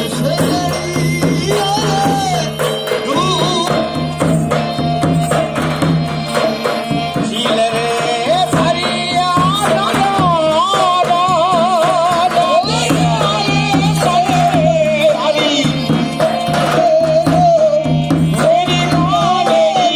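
Rajasthani Kalbelia folk music: a solo voice singing a wavering, ornamented melody over a steady low drone and quick drum and percussion strokes.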